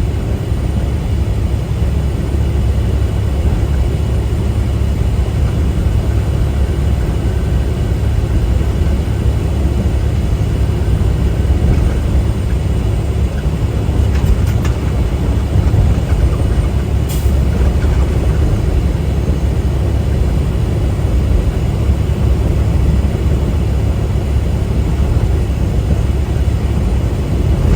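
Steady cab noise of a moving semi truck: the diesel engine and the tyres on the road make an even, heavy rumble. There is one brief click about two-thirds of the way through.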